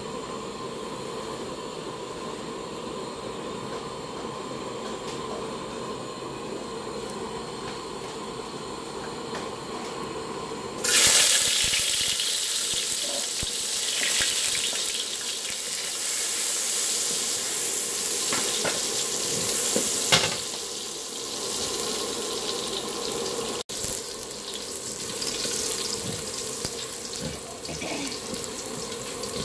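Steady hiss under an empty steel wok heating on a burner. About eleven seconds in, chopped garlic goes into the hot wok and starts sizzling loudly all at once. It keeps sizzling as a spatula stirs it, with a sharp knock near the middle.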